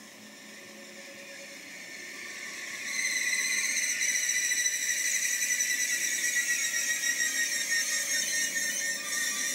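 A train approaching with a high-pitched squeal of several steady tones, growing louder over the first three seconds and then holding.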